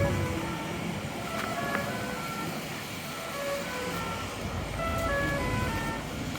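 A simple electronic melody of short beeping notes hopping up and down in pitch, several a second, over a steady hiss of city street noise.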